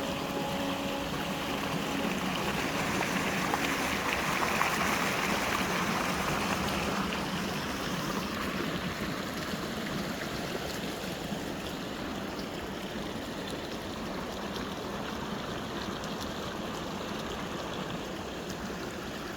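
Flowing stream water running steadily. It swells louder for a few seconds in the first third, then settles to a softer, even flow.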